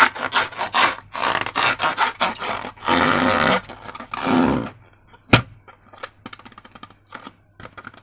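Slime being squished and worked by hand: a quick run of rubbing, scraping strokes, the longest about three seconds in. A single sharp snap comes a little after five seconds, followed by faint small clicks.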